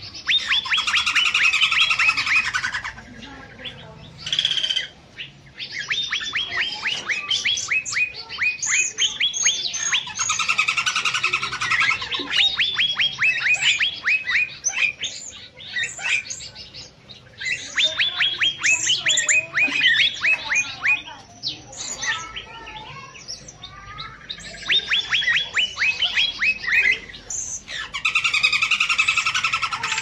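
Cucak mini singing long, busy phrases of quick, repeated down-slurred notes, about four or five a second, broken by brief pauses between phrases.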